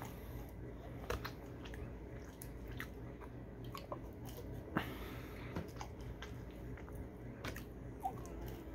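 Close-up mouth sounds of a person biting and chewing seasoned french fries: scattered wet clicks and soft crunches, the sharpest one about halfway through.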